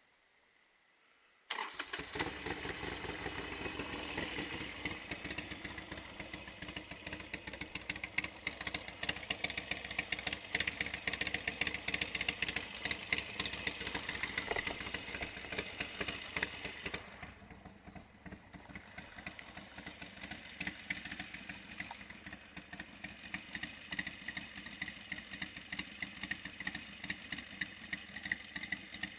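Harley-Davidson XL1200R Sportster's air-cooled 1200 cc V-twin starting up about a second and a half in, then running with a dense, rapid ticking. The level dips briefly a little after the midpoint, then it runs on.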